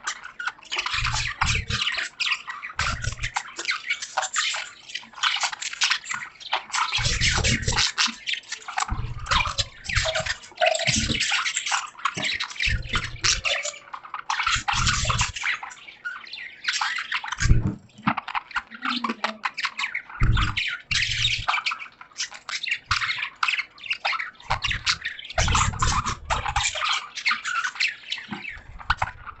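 Budgerigars chattering and chirping busily and continuously, mixed with the patter of rain. Dull low thumps recur through it.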